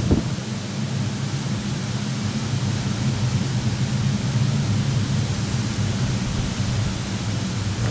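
Typhoon wind and rain as a steady, even rushing hiss, with a strong low rumble underneath.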